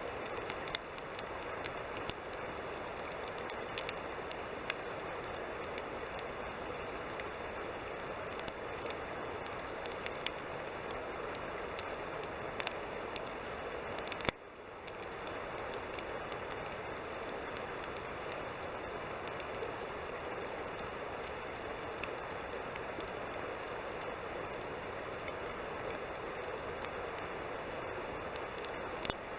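Wood campfire burning: a steady hiss with frequent sharp crackles and pops, and one loud snap about halfway through.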